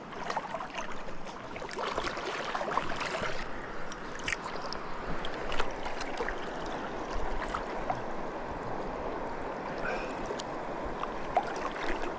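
Steady rushing of river water, with scattered small clicks and splashes over it.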